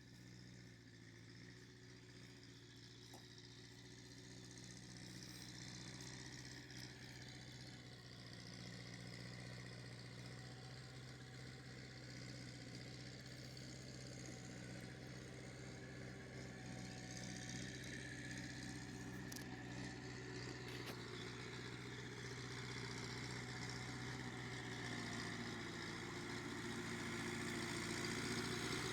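A motor vehicle's engine running steadily at an even speed, growing gradually louder as it draws closer.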